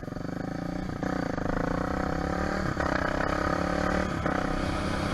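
Vehicle engine accelerating through the gears: its pitch climbs steadily and drops back at each of three shifts.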